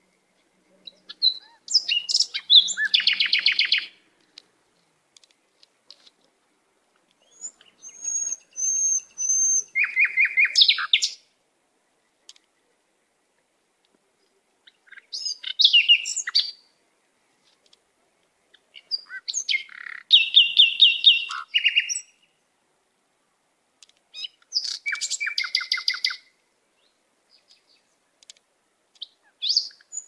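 Songbirds singing short phrases of rapid trilled notes, one phrase every four to five seconds, with near silence between them.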